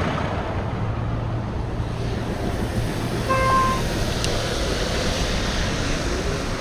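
Steady rush of wind over the microphone with road and traffic noise while cycling. A short, single-pitched beep sounds about three seconds in.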